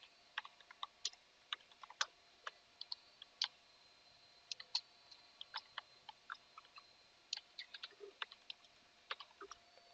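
Faint typing on a computer keyboard: irregular single keystrokes, a few a second, with short pauses between runs.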